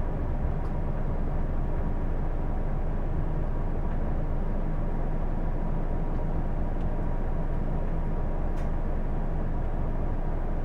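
Hino Blue Ribbon II diesel city bus heard from inside the cabin, running steadily with engine and drive noise and a faint steady high tone. This is a bus the uploader knows for an odd, abnormal noise.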